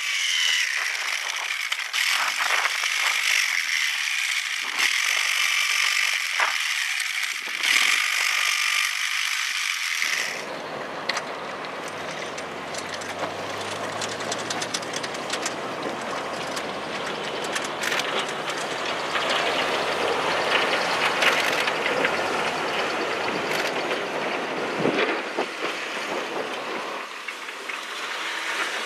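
Snow-clearing machinery at work. For about ten seconds there is a high-pitched whining scrape, then it changes abruptly to a lower engine rumble with a steady hum.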